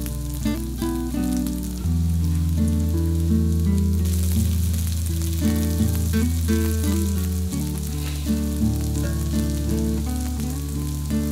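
Tofu pancakes sizzling as they fry in oil in a frying pan, a steady hiss, over background music with sustained notes and a bass line.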